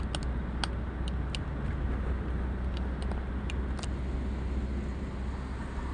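A vehicle cruising at steady speed on a highway, giving a steady low road-and-engine rumble. A few light, irregular clicks come in the first four seconds.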